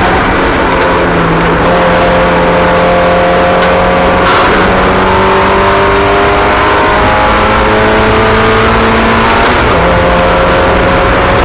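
Several small race car engines running together on a track, their pitches rising and falling as they go round at different speeds.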